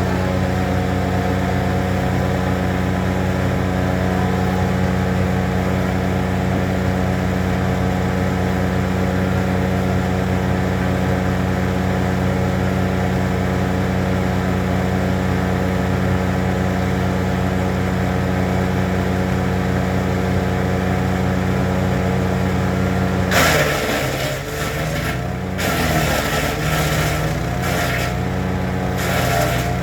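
Honda-engined wood chipper running steadily at speed. After about 23 seconds a loud crackling of wood being fed through and chipped comes in, and the engine note sags under the load and then recovers.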